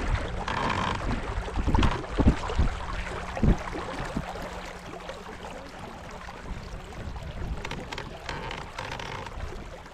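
Small boat on a lake: wind on the microphone and water noise, with a few sharp knocks on the boat and a steady low hum that stops about three quarters of the way through.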